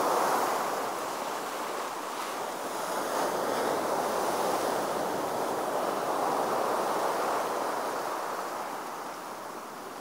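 Sea waves breaking and washing on the shore: a steady rush of surf that swells, eases off, swells again and fades near the end.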